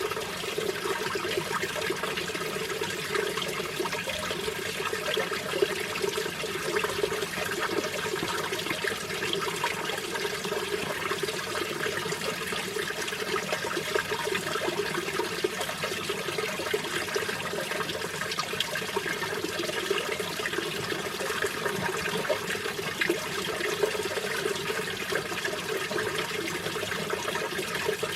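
Mountain valley stream flowing, a steady, unbroken water sound.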